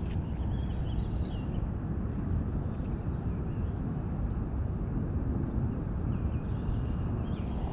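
Steady low rumbling outdoor noise on the microphone at a river bank, with faint high chirps, likely birds, and a thin steady whistle in the middle above it.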